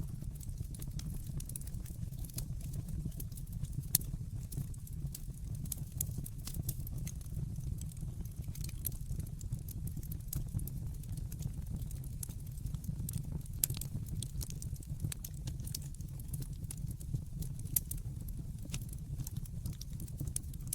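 Wood fire burning in a fireplace: a steady low rumble of the flames with irregular sharp crackles and pops from the burning logs, a few louder snaps standing out.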